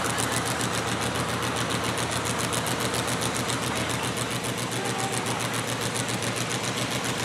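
Mini modified pulling tractor's engine running hard with a fast, even pulse, pulling the weight sled down the track.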